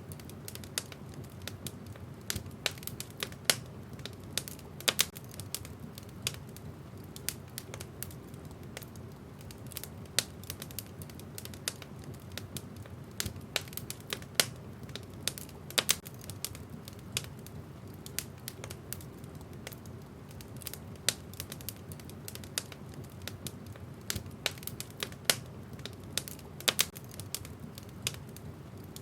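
Wood fire crackling in a fireplace: a steady low rumble from the flames with frequent sharp, irregular pops.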